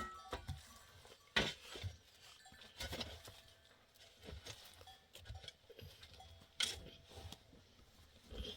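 Irregular light knocks and clinks, a few of them with a short ringing tone, the sharpest right at the start.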